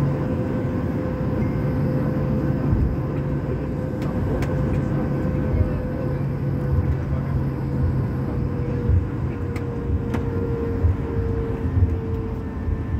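Steady rumble inside a moving vehicle, with a humming tone that sinks slightly in pitch and irregular low knocks from bumps along the way.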